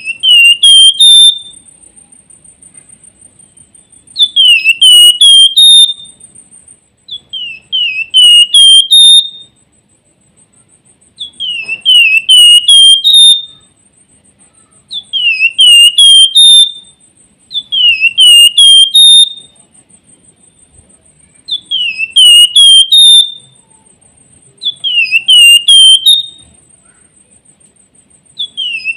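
Flamboyan (Wergan Jawa, Javan fulvetta) singing its whistled song: a phrase of four or five short, hooked whistles, repeated about every three and a half seconds, eight times. A thin, steady high whine runs underneath.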